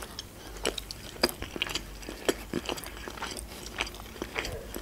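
A person chewing a mouthful of sushi roll close to the microphone, heard as a run of small, irregular mouth clicks a few times a second.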